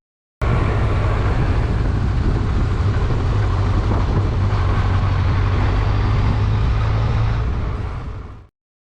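Suzuki GSX-R1100W inline-four engine and exhaust running at a steady speed, fading out about eight seconds in.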